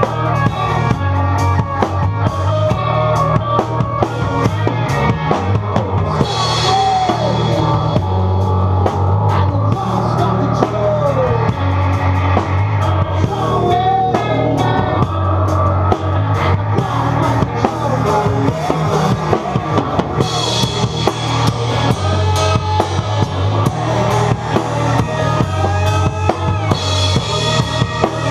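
Rock music played by a band, with a steady, busy drum kit beat of bass drum and snare.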